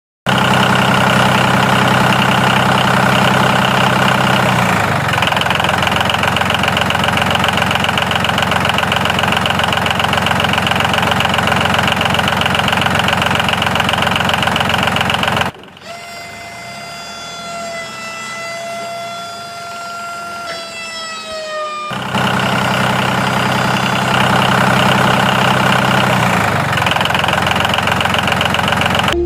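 Tractor engine idling with a fast, even knock. About halfway through it gives way abruptly to a quieter high whine whose pitch sags near the end, then the engine sound returns.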